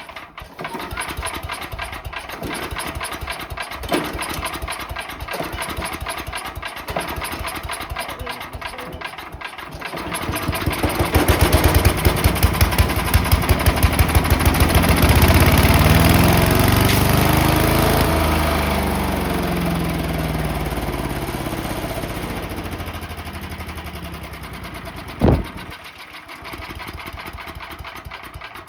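Single-cylinder Briggs & Stratton small engine of a wood chipper/shredder running on starting fluid. About ten seconds in it climbs to a very high rev, then winds slowly back down. A brief sharp tone sounds near the end.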